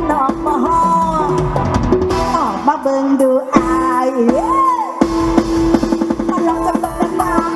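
Mor lam sing band music: a drum kit beat under a bending melody line and a held drone, with a brief break about three and a half seconds in.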